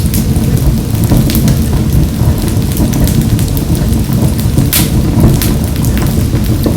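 Wood fire crackling in a wood-burning stove: a steady low rumble of burning with scattered sharp pops, the loudest about five seconds in.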